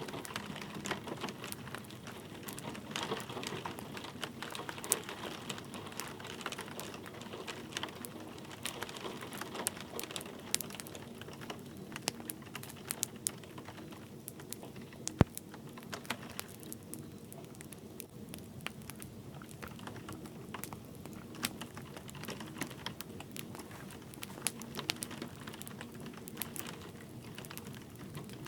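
Wood fire crackling, with irregular sharp pops over a steady hiss of light rain. One louder pop comes about fifteen seconds in.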